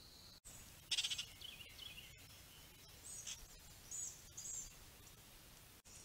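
Birds calling: a loud, harsh, buzzy call about a second in, followed by a short run of chattering, then a few brief high chirps.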